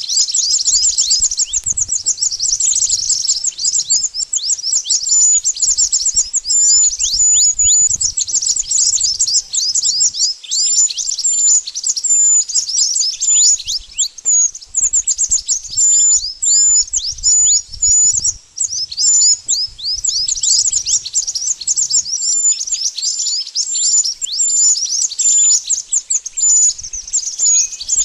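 Mantenan bird song played as a lure call: a dense, continuous stream of rapid, high-pitched chirps, each sweeping downward, several a second.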